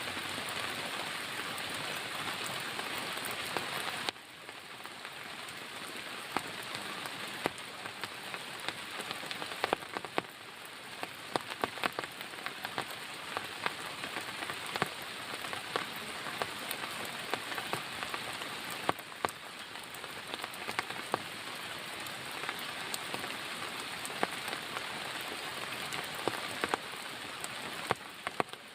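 Heavy rain falling steadily, with many individual drops ticking sharply close by. The rain turns suddenly quieter about four seconds in.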